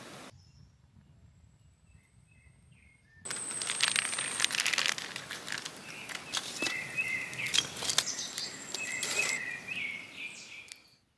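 Small birds chirping in short warbling phrases. Behind them a hissing, crackling noise full of clicks starts suddenly about three seconds in and stops just before the end.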